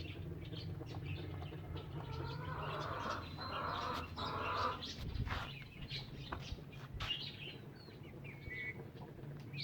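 Caged birds chirping and calling, a louder run of calls about two to five seconds in, with scattered clicks and knocks.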